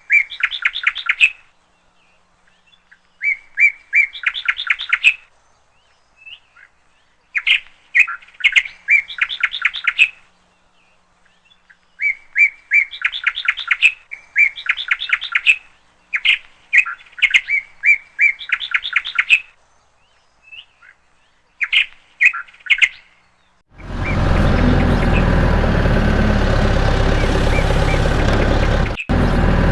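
A songbird chirping in quick repeated phrases, each a rapid run of bright notes, with short pauses between them. About 24 seconds in the bird stops, and a steady engine-like running noise takes over, broken by a brief gap near the end.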